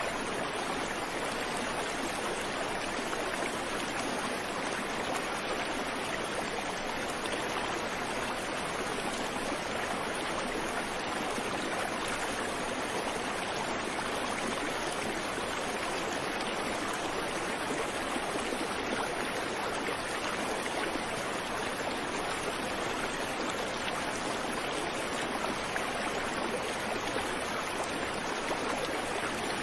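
Creek water flowing steadily over rocks, an even rushing sound with no birdsong.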